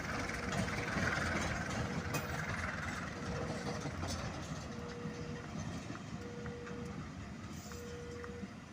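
A train running on the track: a continuous rumble that slowly fades. Behind it, a beep sounds about every second and a half, growing stronger toward the end.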